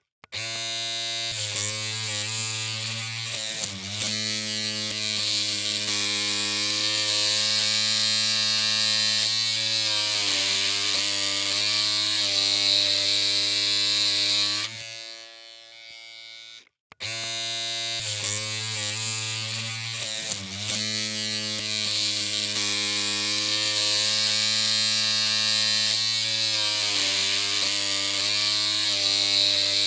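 Electric hair clippers humming with a steady buzz. About halfway through the hum fades and stops for a moment, then starts again and repeats the same stretch.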